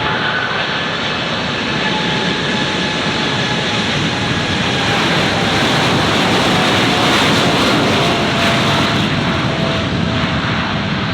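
Airliner's engines passing close by, a loud rushing roar that swells to a peak about seven seconds in, with a whine that falls slowly in pitch as it goes by.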